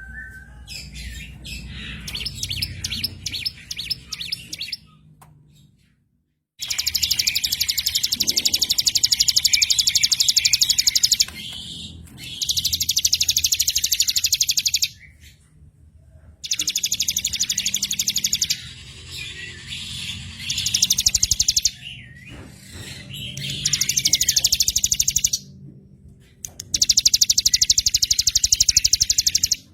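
Small songbirds singing on a masteran birdsong recording: long, very fast, even trills of a few seconds each, repeated with short gaps, with softer chirps and twitters between them.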